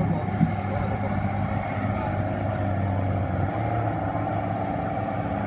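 Diesel engine of a pulling tractor running steadily under heavy load, at full throttle, as it drags the sled; its pitch shifts slightly about three and a half seconds in.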